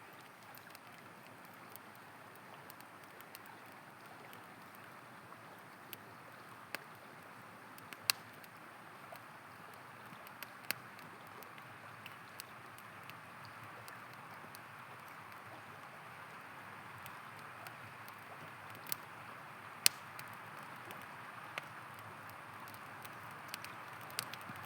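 A river flowing steadily under a crackling campfire: wood pops and snaps at irregular intervals, two of them much sharper, about eight seconds in and near twenty seconds.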